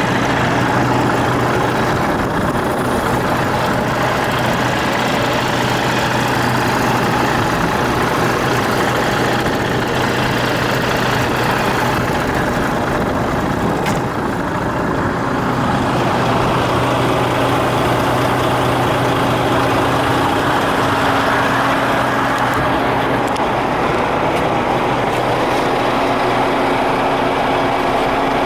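DAF CF85 truck's diesel engine running steadily, with a steady low hum and a brief slight drop in level about halfway through.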